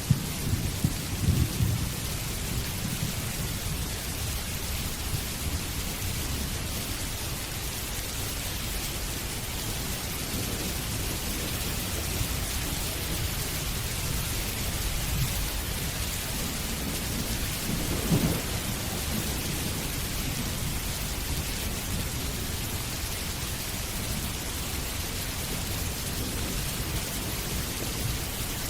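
Steady heavy rain, with low rumbles of thunder in the first couple of seconds and again about 18 seconds in.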